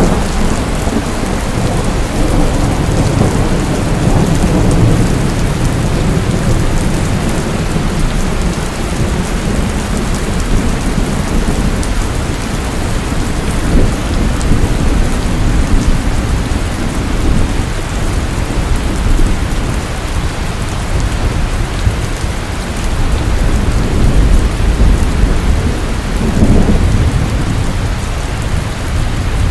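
Steady heavy rain with low rumbling thunder underneath, the rumble swelling a few seconds in and again near the end.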